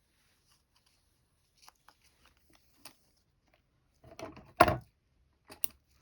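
Hand-stitching: faint clicks and rustles of needle, thread and fabric being handled, then a louder short rasp about four and a half seconds in, like thread drawn through cloth.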